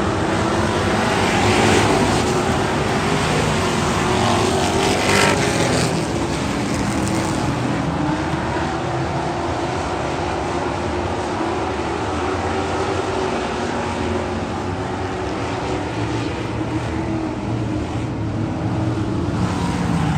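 Race car engine running at a steady pitch, with brief surges of noise about 1.5 and 5 seconds in.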